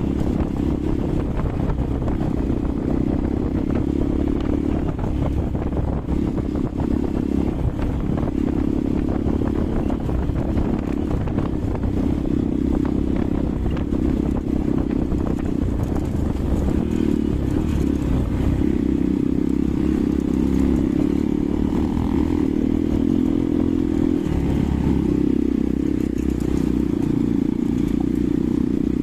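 Hero Xpulse 200 single-cylinder motorcycle engine running steadily under way, a continuous low drone.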